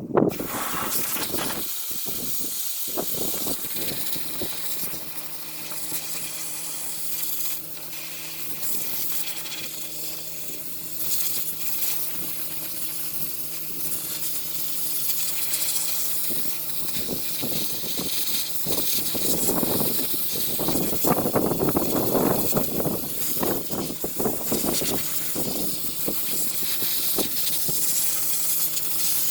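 Compressed air hissing steadily from an air-powered tool working on the truck frame, growing louder in stretches, with a steady low hum joining about four seconds in.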